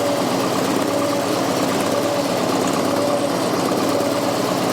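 Fordson Super Major backhoe's 3.6-litre four-cylinder diesel engine running steadily, with a faint tone coming and going about once a second.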